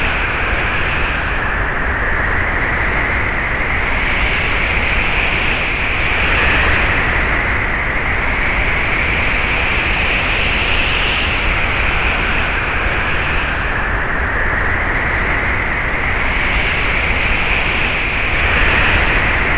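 Recorded wind sound effect: a steady rush of wind with a whistling edge that rises and falls slowly in pitch, swelling in gusts about six seconds in and again near the end.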